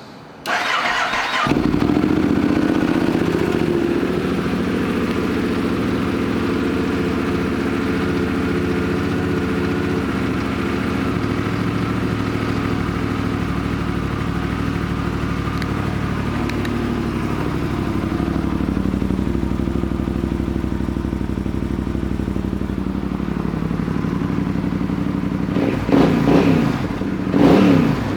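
2012 Yamaha Super Tenere's 1200cc parallel-twin engine, fitted with a Two Brothers aftermarket exhaust, cranked on the starter and catching within about a second, then idling steadily. Near the end the throttle is blipped twice, the revs rising and falling each time.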